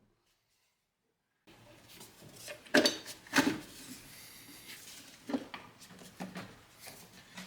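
Metal clinks from handling tools or parts: two sharp clinks about half a second apart, then a few lighter clicks and knocks.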